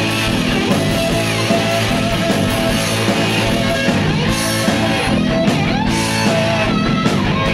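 Live rock band playing an instrumental passage between vocal lines: electric guitar, bass and drums with cymbals, no singing.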